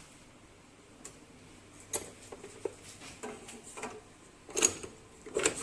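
Scattered light clicks and knocks at an irregular pace, starting about two seconds in, with the loudest pair near the end.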